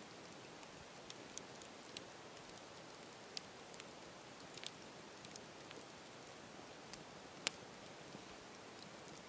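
Campfire crackling: a steady low hiss with scattered sharp pops and snaps, the loudest about seven and a half seconds in.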